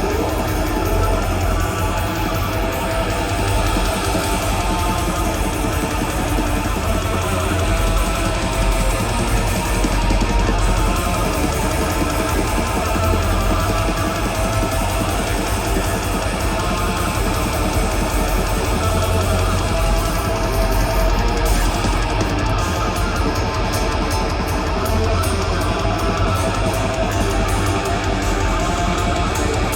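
Live death metal band playing: heavily distorted electric guitars over bass and drums, loud and unbroken.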